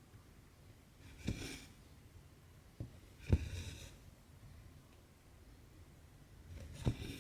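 Cross-stitching on Aida cloth: a needle taps through the fabric and cotton thread is drawn through with a short rasp, three times, with a lighter tap in between.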